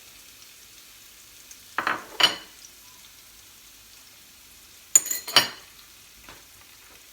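Garlic frying gently in olive oil, a faint steady sizzle, with a spoon knocking and scraping against the pan in two short bursts, about two seconds in and again about five seconds in, as a spoonful of harissa goes in and is stirred.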